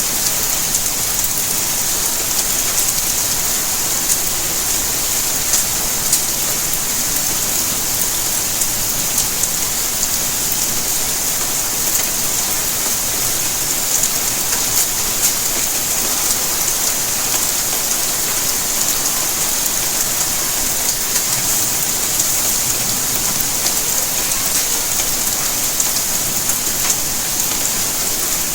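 Steady rainfall: an even, bright hiss with scattered sharp ticks of individual drops.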